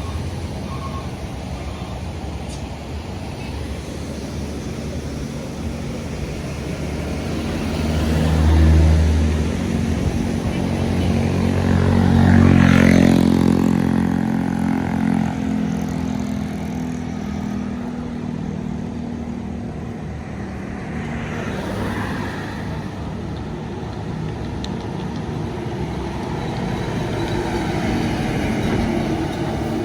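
Heavy road vehicles, trucks and buses, driving past one after another, their diesel engines swelling and fading as each passes. The loudest pass-by comes about twelve seconds in, with a drop in pitch as it goes by.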